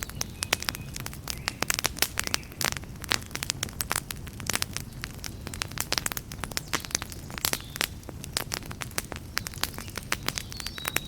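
Campfire burning with dense, sharp crackles and pops over a low, steady rumble from the flames.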